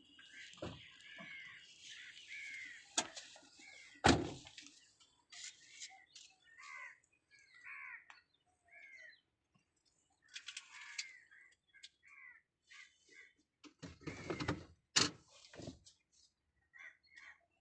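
Birds calling over and over in short, bending calls. Car doors shut with a loud thump about four seconds in, and there is a cluster of knocks and thuds around fourteen to sixteen seconds.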